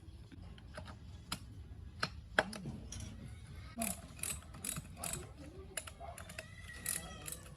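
Irregular sharp metallic clicks and clinks of hand tools on car engine parts during restoration work.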